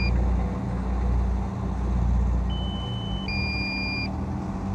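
Drone remote controller sounding its low-battery warning: a steady electronic beep, then a two-note beep, each under a second, repeating every few seconds over a steady low rumble.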